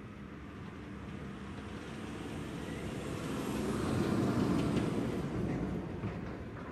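Container flat wagons of a long intermodal freight train rumbling past on the track. The noise builds to a peak about four seconds in and then eases, with a few faint clicks near the end.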